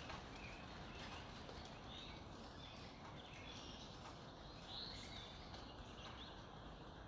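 Early-morning wild birdsong: scattered short chirps and whistles from several birds, faint, over a steady background hiss.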